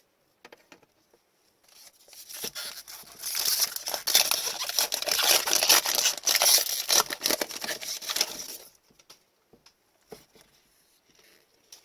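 A trading card pack wrapper being torn open and crinkled by hand: a few seconds of dense, loud crackling that stops suddenly about two-thirds of the way in.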